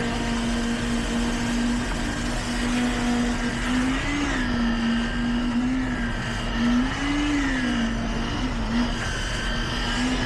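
Heavy construction machinery's engine running at a steady speed, its pitch rising and falling back twice as the revs briefly go up.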